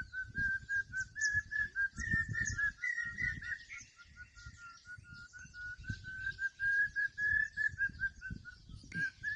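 A bird giving a long call: a run of short, evenly repeated notes, about four a second, stepping a little up and down in pitch and stopping shortly before the end. Other small birds chirp faintly above it.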